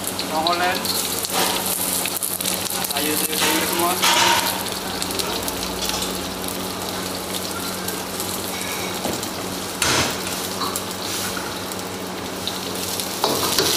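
Beef and vegetables sizzling in a hot wok on a gas burner, with fresh greens, onion and chilli tipped into the oil. A steady frying hiss, with one sharp knock about ten seconds in.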